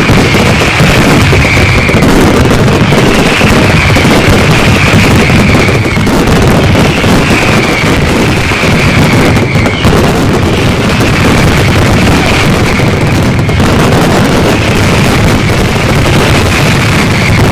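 Fireworks barrage: a loud, unbroken, dense crackle of rapid bangs, with a falling whistle about every two seconds.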